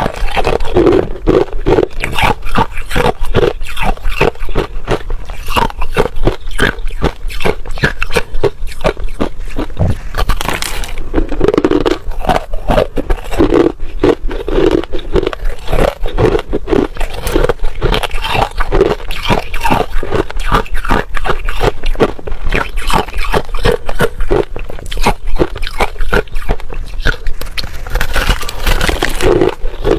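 Ice crunched and chewed between the teeth close to the microphone: a fast, unbroken run of sharp cracks and crunches.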